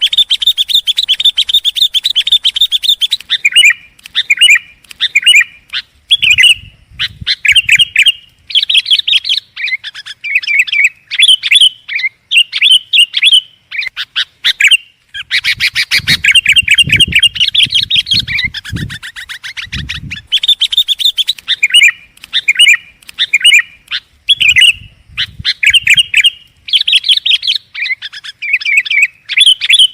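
Sooty-headed bulbul (kutilang) singing loudly and energetically: rapid chattering, bubbling phrases repeated almost without pause. Low rumbles sound underneath now and then.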